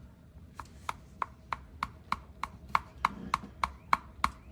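Aerosol can of penetrating oil being shaken, its mixing ball clacking in a steady rhythm about three times a second.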